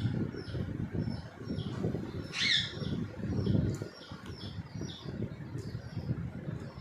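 Alexandrine parakeets calling: a steady run of short, high, falling chirps about one or two a second, with one louder harsh call about two and a half seconds in. A low rumble runs underneath.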